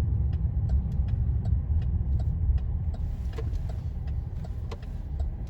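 Car heard from inside the cabin while driving slowly: a steady low road and engine rumble, with scattered light ticks at irregular intervals.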